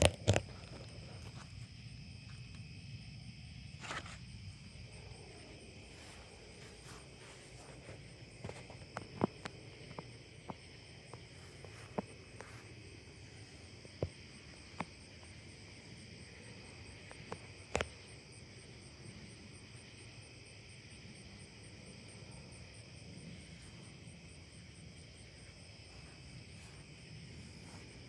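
Crickets and other night insects trilling steadily in several high, even tones, one of them pulsing fast. Scattered sharp clicks and taps break in during the first half, most around ten seconds in.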